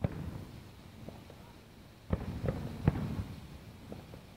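Fireworks going off: a sharp bang at the start, a couple of faint pops, then a quick run of bangs about two seconds in with a low rumble between them.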